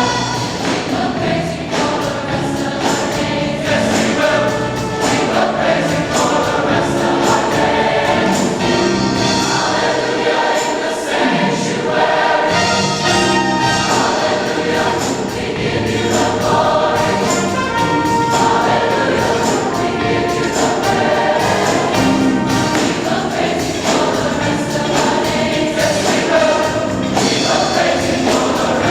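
Choir singing a gospel praise song.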